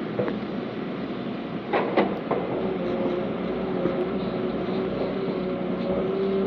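Heavy diesel earthmoving machinery running steadily, with a steady whine over the engine noise and a few sharp metallic clanks about two seconds in.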